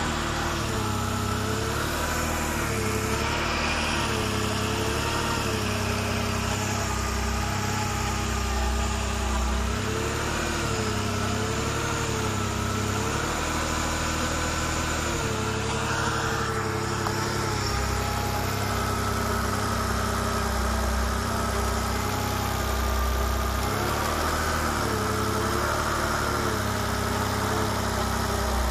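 BMW E36 M3's 3.2-litre straight-six engine idling, its pitch wavering slightly.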